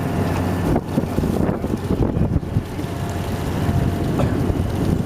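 Wind buffeting the microphone over the steady low hum of a fishing boat's engine.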